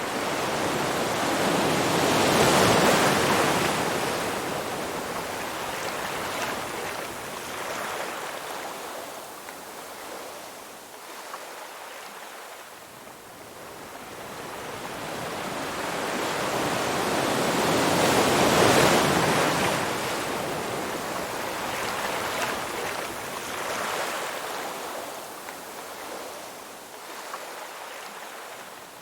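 Ocean waves breaking and washing up a shore: two waves about sixteen seconds apart, each building to a loud crash and then slowly washing out.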